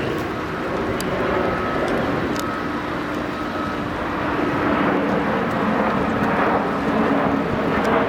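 Steady hum of a camera drone's motors and propellers, with its pitch drifting slightly.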